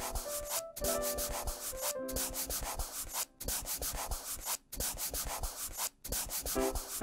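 Felt-tip marker scribbling on paper in quick back-and-forth strokes, coloring in, with a few brief pauses. A soft melody plays faintly underneath.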